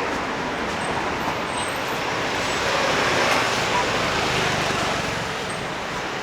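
City street traffic: a steady noise of passing cars that swells as a vehicle goes by about three seconds in, then eases.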